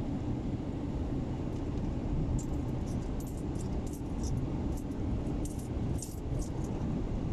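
A run of small, light metallic clinks and jingles, like keys or coins shaken, starting a couple of seconds in and stopping shortly before the end, over a steady low rumble.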